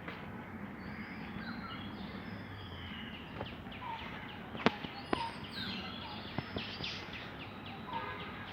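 Small birds chirping and trilling over a steady outdoor background hiss, with a few sharp clicks; the loudest click comes a little past halfway.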